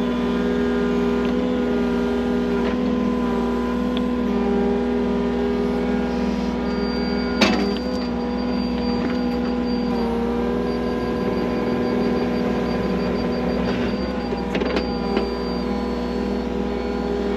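The diesel engine of a compact construction machine runs steadily under work, with a sharp knock about seven seconds in.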